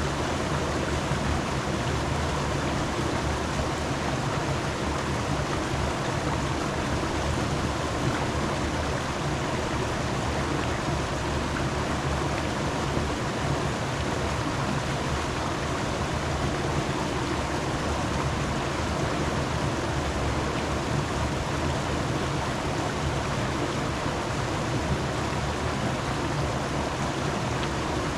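Steady rushing sound of flowing water.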